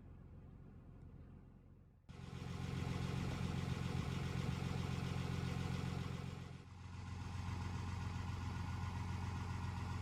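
Heavy-duty pickup truck engine idling steadily: quiet and low at first, then abruptly much louder and fuller about two seconds in, with a short dip in level near seven seconds.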